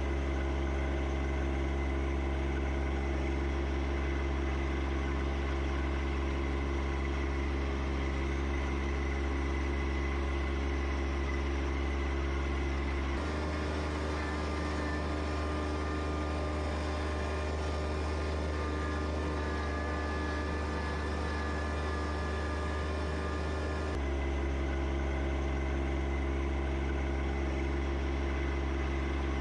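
John Deere 1025R compact tractor's three-cylinder diesel engine running at a steady speed. Its note changes abruptly about 13 seconds in and switches back about 24 seconds in.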